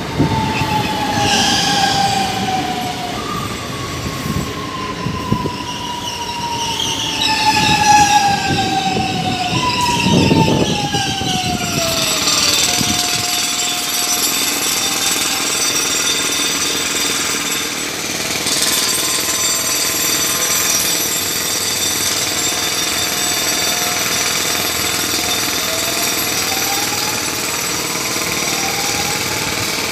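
Electric commuter trains: one runs past with its motor whine falling in pitch and wheels clattering on the rails. Then another train hums steadily, and a faint rising whine near the end marks it pulling away.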